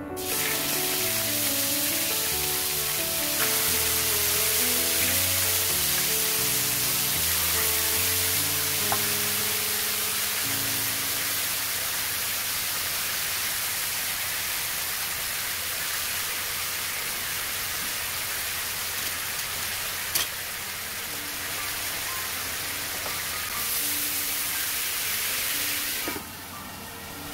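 Chicken thighs sizzling loudly in hot oil in a non-stick frying pan, with soft piano music underneath. A single sharp click comes about twenty seconds in, and near the end a glass lid goes on and the sizzle drops off.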